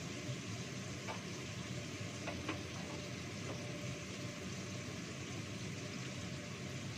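Steady sizzling of food frying in a wok, with a few light clicks of utensils.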